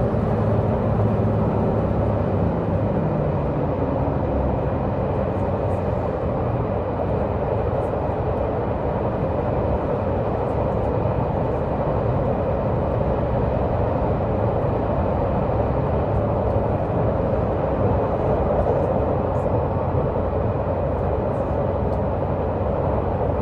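Diesel multiple unit express train under way, heard from inside a passenger car: the underfloor diesel engine's steady drone together with wheels running on the rails. The engine's low note is strongest in the first few seconds, then eases slightly.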